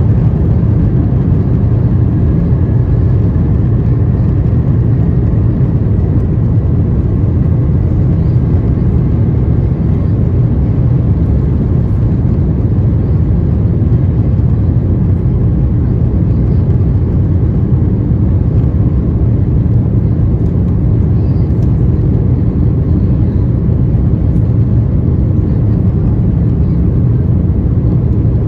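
Loud, steady low rumble inside the cabin of an Airbus A350-900: its Rolls-Royce Trent XWB engines and the airflow, unchanging throughout.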